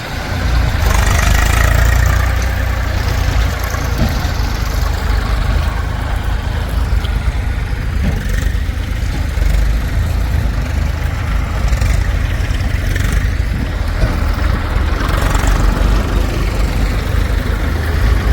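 Heavy diesel machinery engine running with a deep, steady rumble, growing louder about a second in and again near the end.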